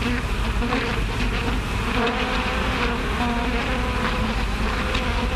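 Swarm of bees buzzing in a steady, wavering drone over the hiss of an early sound-film track.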